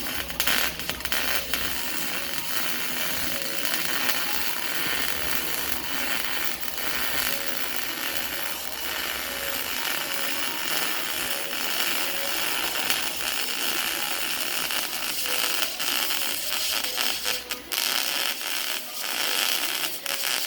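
Arc welding on steel exhaust pipe: a steady, continuous crackling sizzle from the arc.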